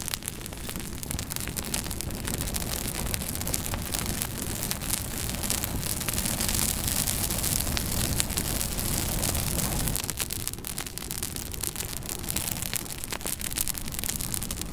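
Wood fire burning in a fireplace: a steady hiss of flames with many sharp crackles and pops from the burning logs, a little louder in the middle.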